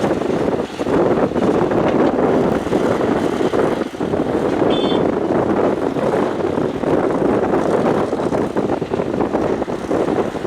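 Excavator diesel engine running steadily as the machine works, with a short high squeak about five seconds in.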